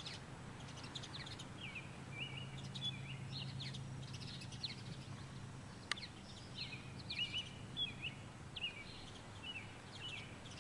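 Small birds chirping over and over in short rising and falling calls, with a steady low hum underneath and a single sharp click about six seconds in.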